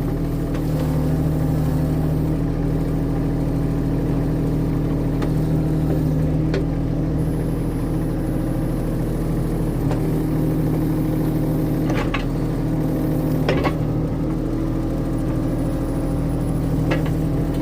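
Skid steer engine running steadily at an even speed, with a few brief sharp knocks or clanks.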